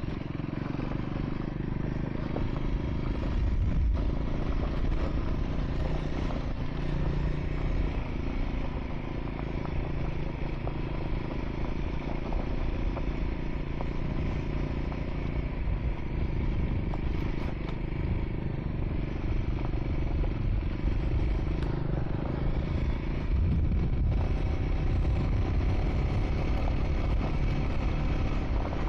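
Triumph Scrambler 400 X single-cylinder engine running steadily while the motorcycle rides a gravel track.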